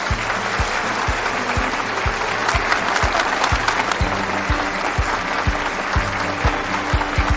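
Audience applauding over background music with a steady, regular beat; the applause thins out near the end.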